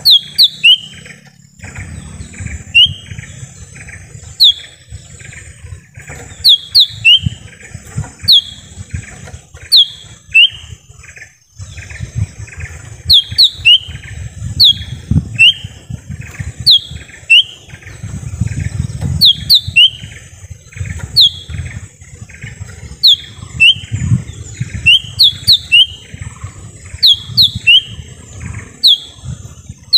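Cucak ijo mini calling: loud, sharp down-slurred notes, often in quick pairs, repeated about once or twice a second, with softer chattering between them. A steady high hiss and an uneven low rumble run underneath.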